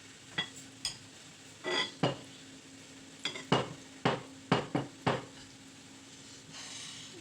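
Cutlery clinking and scraping on plates while eating: a run of sharp clinks, coming quickly several times in a row around the middle, over a faint steady hum.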